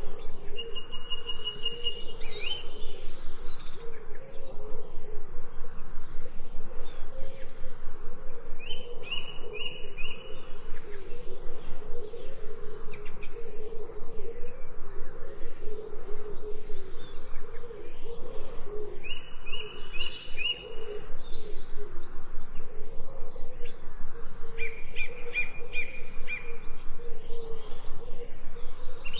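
Several birds singing and calling together: short runs of three or four quick, high whistled notes recur every few seconds over a continuous lower warbling.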